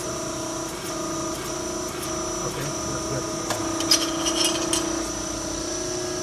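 Shop machine humming steadily, with a run of light metal clinks and taps around four to five seconds in.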